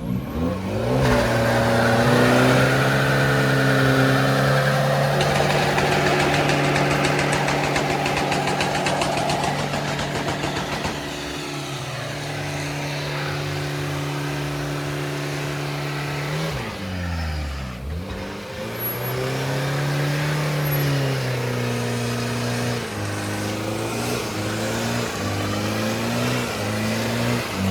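Car engine revving and held at high, steady revs for long stretches, with the revs dropping away about 17 seconds in and climbing again afterwards.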